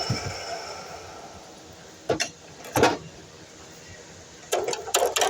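DeWalt miter saw winding down to a stop, its motor tone fading away in the first second. Then two short sharp clatters and, near the end, a quick run of knocks.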